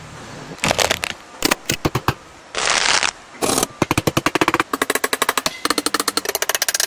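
Clicks and a brief hiss, then a fast, even run of mechanical clicks at about a dozen a second.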